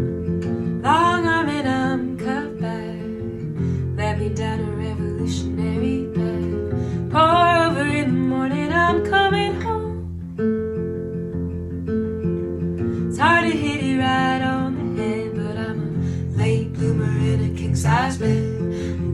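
Live band music: acoustic guitar strumming chords, with three short wordless vocal phrases sung over it.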